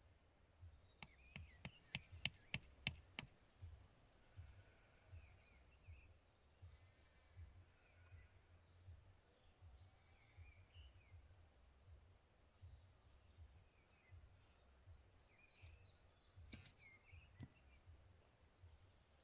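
Faint songbirds chirping in short repeated phrases, with a quick run of sharp clicks about a second in and a low rumble underneath.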